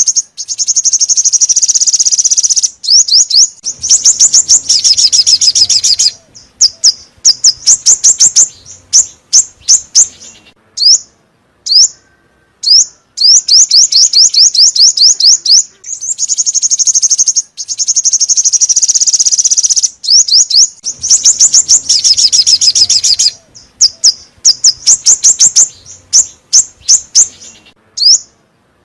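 Loud call of the songbird Vietnamese keepers call 'chim 5 màu' (five-colour bird), played as a lure for trapping. It is a fast, high-pitched chirping run lasting several seconds, broken by short pauses and single chirps, and the pattern repeats.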